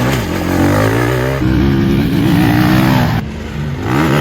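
Motocross bike engine revving hard, its pitch climbing and falling with the throttle; the revs drop sharply about three seconds in, then climb again.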